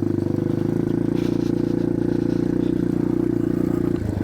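1987 Yamaha TW200's single-cylinder four-stroke engine running at a steady pitch under way, dipping briefly near the end.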